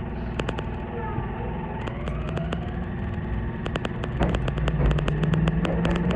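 Meitetsu 2000-series electric train pulling away: the traction motors whine in gliding tones that rise as it picks up speed, over a steady low hum, with sharp wheel clicks over rail joints and points that come faster and louder towards the end.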